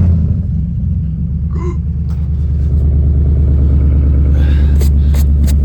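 Chevy Silverado Z71 LTZ's engine catching on a cold start and settling into a steady idle, loud and even, swelling slightly about three seconds in. Near the end a run of light ticks, about three a second, rides over it.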